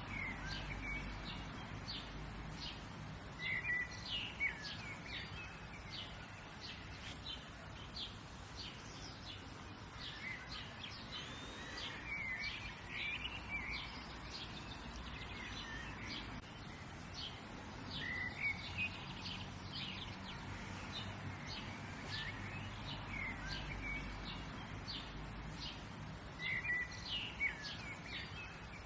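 Several small songbirds chirping and singing, with many short repeated chirps and a few louder calls now and then, over a steady low background rumble.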